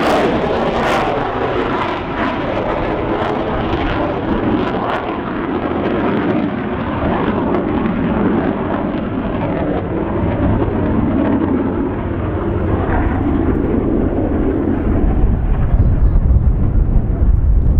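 Avro Vulcan's four Rolls-Royce Olympus turbojets running loud and steady, growing duller as the bomber draws away. Wind rumbles on the microphone in the last few seconds.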